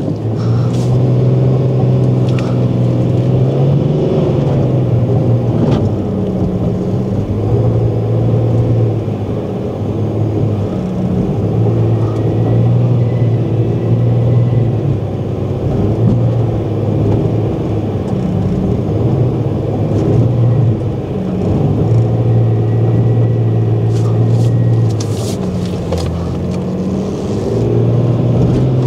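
SUV engine pulling hard under load in low-speed off-road driving, the revs repeatedly dipping and rising again every few seconds.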